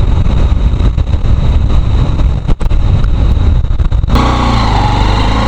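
Wind rumble on the microphone of a motorcycle slowing to a stop. About four seconds in, the wind cuts off suddenly and the motorcycle's engine is heard idling steadily.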